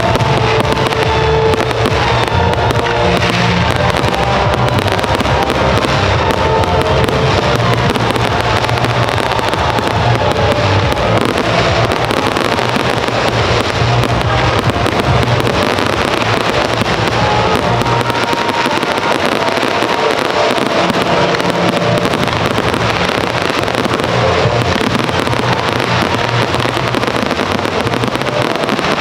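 Fireworks display firing continuously: a dense run of shell bursts and crackling, mixed with music. The music's deep bass drops away about two-thirds of the way through.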